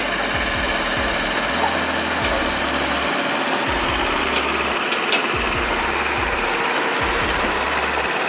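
Heavy-haulage truck's diesel engine running steadily at a low idle, with a few faint clicks over it.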